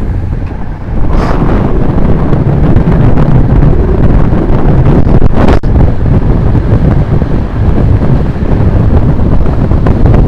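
Wind buffeting the microphone of a camera on a road bike descending at speed: a loud, steady, low rumble, with one sharp click about halfway through.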